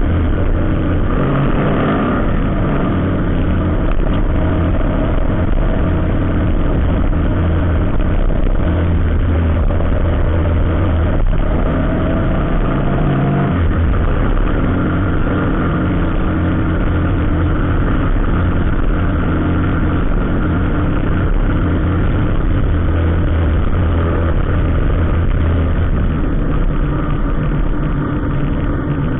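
Vehicle engines, heavy trucks among them, running steadily with a deep low drone. One engine's pitch rises gradually from about eleven seconds in, then drops off near fourteen seconds. A single short tick sounds about eleven seconds in.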